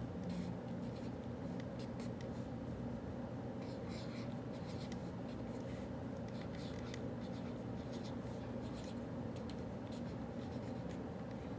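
Writing on paper: many short, light scratching strokes in irregular runs, over a steady low room hum.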